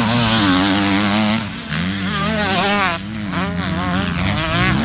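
Motocross dirt bike engine revving hard, its pitch climbing and falling again and again as the throttle is worked, with short drops about a second and a half in and again at three seconds.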